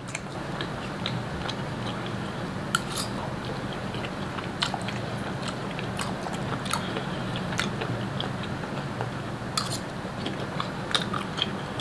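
A person chewing a mouthful of spaghetti close to the microphone, with scattered short wet mouth clicks and smacks over a low steady hum.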